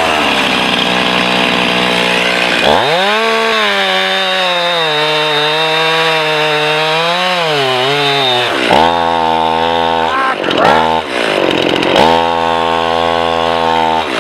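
Two-stroke gas chainsaw running continuously while cutting into a tree. The engine revs up about three seconds in, sags and recovers a few times, then settles to a lower, steadier speed near the end.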